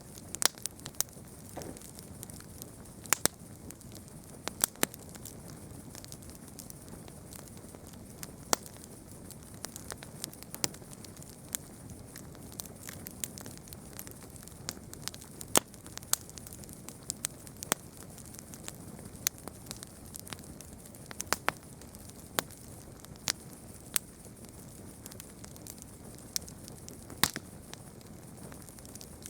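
Campfire burning and crackling, with irregular sharp pops and snaps over a soft steady hiss.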